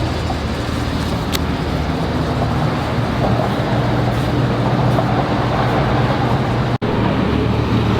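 Ram SRT-10's V10 engine idling steadily through a freshly installed exhaust with quad tips, sounding healthy. It cuts out for an instant near the end.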